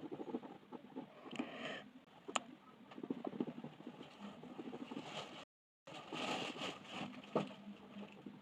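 Coloured pencil scratching back and forth on paper in quick, rapid colouring strokes, with a sharp tick about two and a half seconds in. The sound drops out completely for a moment about five and a half seconds in.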